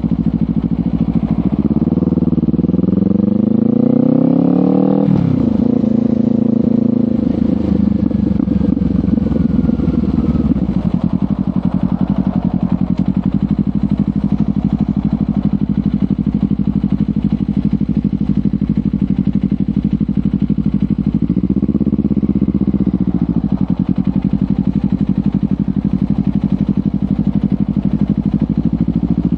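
Kawasaki Ninja 500 parallel-twin engine through a LeoVince GP Corsa Evo slip-on exhaust. Its revs climb for about three seconds and then drop sharply, after which it runs at a steady engine speed. A little over twenty seconds in, the revs briefly rise and fall again.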